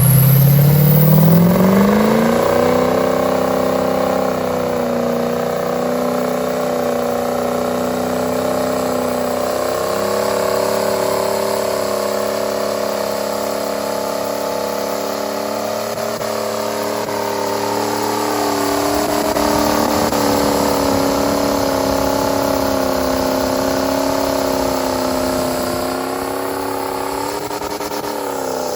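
Truck engine revved up, its pitch climbing in steps over about two seconds, then held at high, nearly steady revs for the rest, wavering only slightly.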